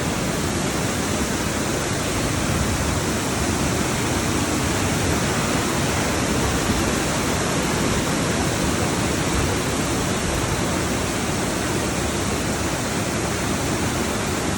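Waterfall: falling water making a steady rushing noise.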